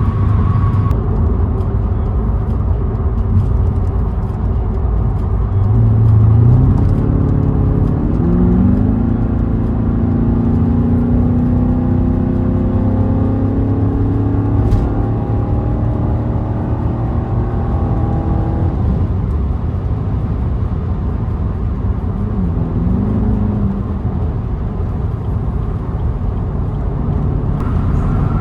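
V8 car engine and exhaust under way with steady road noise. The pitch climbs in steps through gear changes from about six seconds in, holds a steady drone while cruising, then briefly drops and rises again later on.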